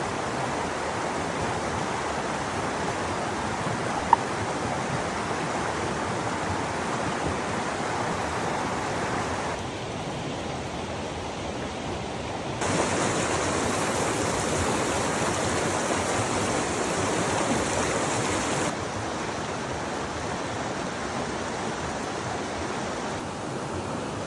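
Steady rushing of running water, with no tones in it. It changes abruptly in loudness and brightness several times, louder and hissier in the middle, with one sharp click about four seconds in.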